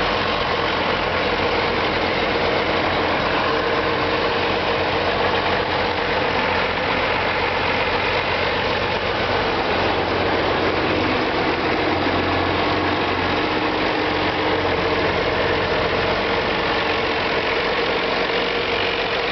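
1963 Allis-Chalmers D19's six-cylinder diesel engine running steadily, with no change in speed.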